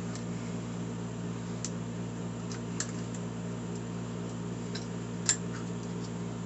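Steady low machine hum, with a few faint light clicks and taps, the loudest a little past five seconds in.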